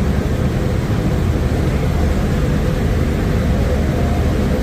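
A steady, loud, low engine rumble with a faint constant hum.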